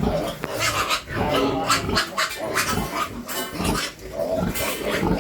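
Piglets calling, many short calls overlapping one another.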